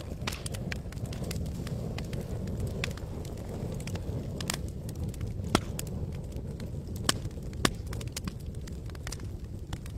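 Campfire crackling: irregular sharp pops and snaps from the burning wood, three louder pops in the second half, over a steady low rumble of the flames.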